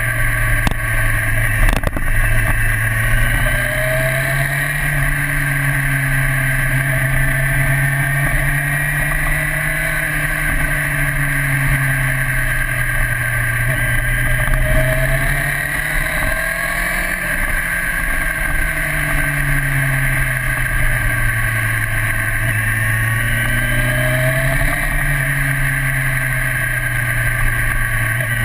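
1998 Honda CBR900RR Fireblade's inline-four engine heard onboard while riding through corners, its pitch falling and rising again a few times as the rider rolls off and back on the throttle, with wind rushing past the bike.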